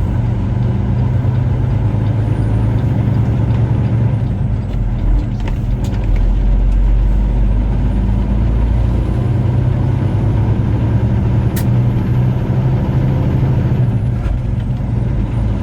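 Semi truck's diesel engine running steadily under way, heard from inside the cab with road noise, plus a faint high whine.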